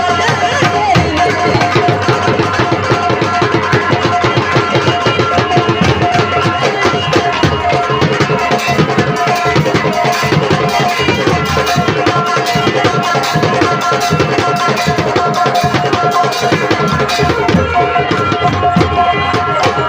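Live Indian folk stage music: fast hand-drum beats under steady held melody tones, with no singing standing out.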